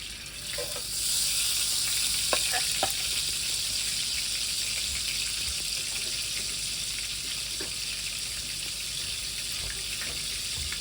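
Cubed leftover roast potatoes and onion sizzling in hot fat in a frying pan, the hiss jumping up about a second in and then holding steady with scattered small pops.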